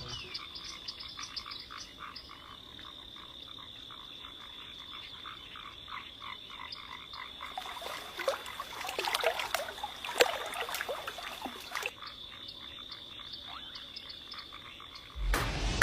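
Frogs croaking in a chorus of rapid, repeated short calls over a steady high-pitched whine, busiest for a few seconds in the middle. Music cuts in just before the end.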